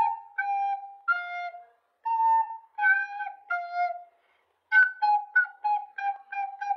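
A flute-like melody played note by note: a few longer held notes, a short break about four seconds in, then a run of quicker, shorter notes.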